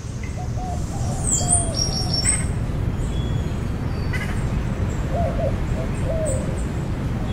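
Steady low rush of ocean surf with several birds calling over it. Low wavering hooting notes come in two groups, in the first two seconds and again about five to six seconds in, among higher chirps and whistles. The ambience swells up over the first second.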